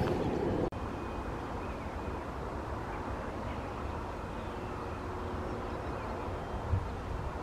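Jet airliner engine rumble that cuts off abruptly under a second in, followed by a quieter, steady rumble of distant aircraft engines with a faint thin whine.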